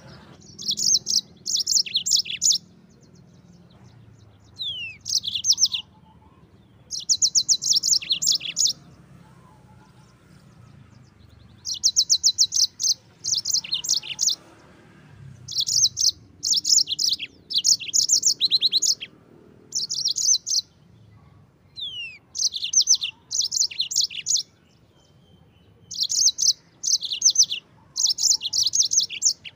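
Yellow-fronted canary (Mozambique canary) singing. It repeats fast, high trilled phrases of one to two seconds, with short pauses between them and a few quick falling whistles.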